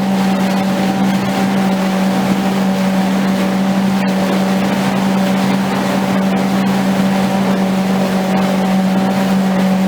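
Boat motor running steadily at cruising speed: an even hum over a constant rushing noise.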